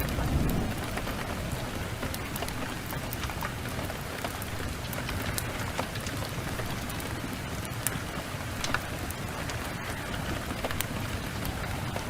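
Steady rain mixed with the scattered sharp crackles of a wood fire. A low rumble swells and fades in the first second.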